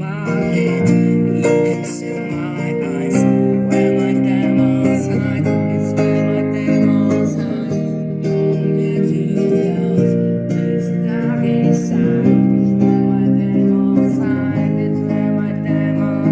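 Electric guitar strumming sustained chords, changing chord about every two seconds, with no singing.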